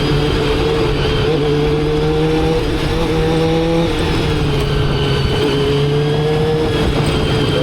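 Motorcycle engine running under way, its pitch climbing slowly and dropping back about four seconds in, then climbing again, over steady road noise.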